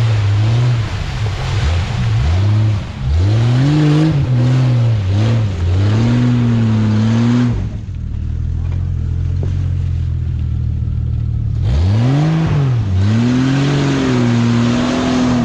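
Jeep Cherokee XJ engine revving up and down repeatedly while the car is driven over off-road terrain. About halfway through it settles to a quieter, steady note for a few seconds, then revs up and down again.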